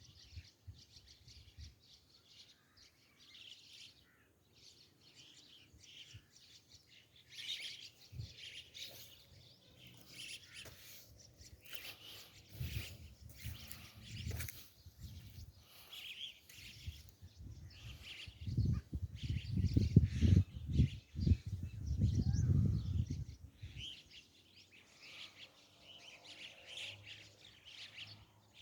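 Small birds chirping and calling over and over. Several bursts of low rumbling noise come through, the loudest starting a little past halfway.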